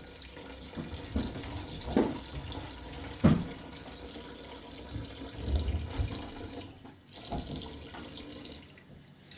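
Water running and splashing, with a few sharp knocks about two and three seconds in, the second one the loudest.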